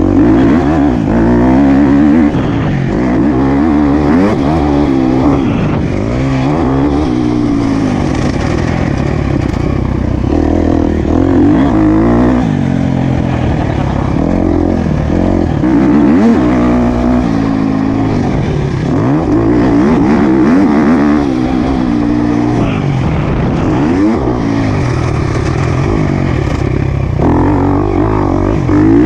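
Motocross bike engine revving up and down as it is ridden around a dirt track, its pitch rising and falling every second or two.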